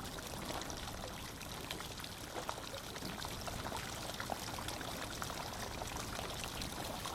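Water running and trickling steadily, with small splashes and drips ticking through it, like a small stream.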